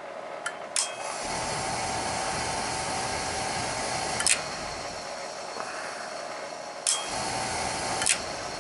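Oil boiler's main control clicking in and out, with a steady electrical-mechanical hum that comes on at one click and stops at the next, twice. The relay is not holding in, which the technician puts down to a bad relay in the control.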